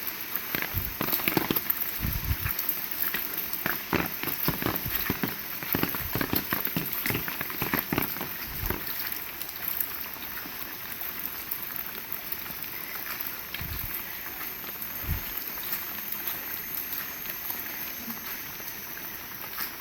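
Heavy rain falling steadily, with a dense run of close drips and taps through the first half that then thins out, and a few dull low thuds.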